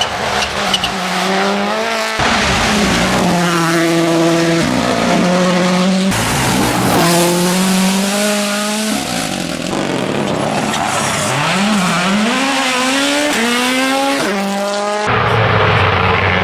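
Rally cars' turbocharged four-cylinder engines at full throttle on tarmac. Each revs up through the gears, the pitch climbing and dropping back at every shift, with a dip and recovery as one car brakes and accelerates again. Several short passes follow one another with abrupt changes of sound.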